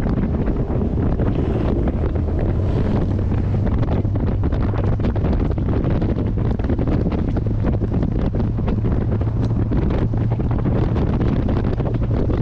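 Heavy wind buffeting the microphone while driving, over the steady low drone of a C3 Corvette's small-block 350 V8 at a constant cruise.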